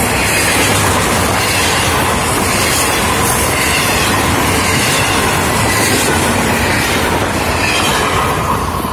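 Florida East Coast Railway double-stack container train rolling past close by at speed: the steady noise of steel wheels on rail and the cars rattling. The last car passes near the end and the noise starts to fall away.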